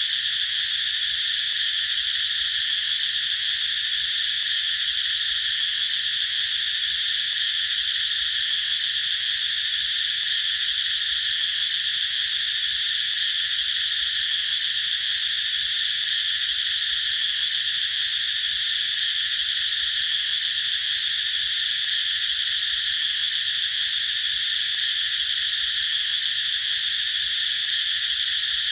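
Chorus of cicadas singing, a steady unbroken high-pitched buzz.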